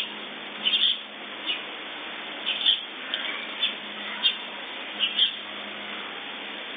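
Birds chirping: about a dozen short, high chirps at irregular intervals, over a steady hiss from a phone's microphone.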